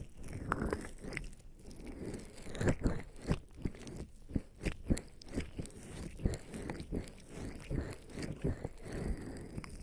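Wet, slippery squelching of skin coated in lubricant jelly rubbing against a close binaural microphone: irregular, sticky smacks and slides, several a second.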